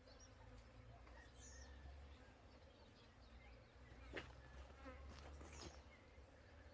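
Near silence: faint outdoor background with a low rumble and a faint steady hum, scattered faint chirps, and a couple of soft clicks about four and five and a half seconds in.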